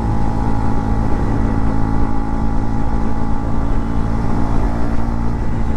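KTM Duke 250's single-cylinder engine running at a steady cruise, its pitch holding even, under heavy wind rumble on the camera's microphone.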